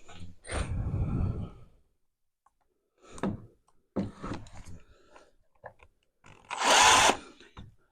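A power tool runs in two short bursts, the louder one near the end, with a few knocks in between.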